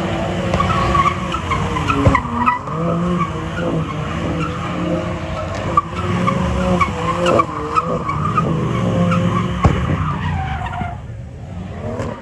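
A car doing donuts and drifting: the engine revs up and down over and over while the tyres screech, with a few sharp cracks. It fades away near the end.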